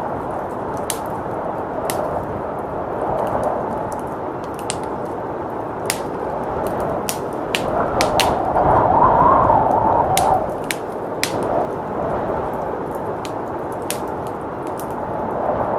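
Wood fire crackling, with scattered sharp pops and snaps, over a steady rush of blizzard wind that gusts louder about eight seconds in and eases off near ten seconds.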